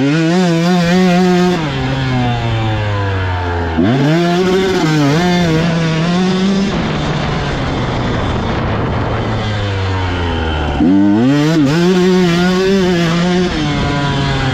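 Dirt bike engine revving hard on a motocross track, surging up in pitch three times, about four and eleven seconds apart, with the throttle blipping and easing off between surges as the bike accelerates and slows.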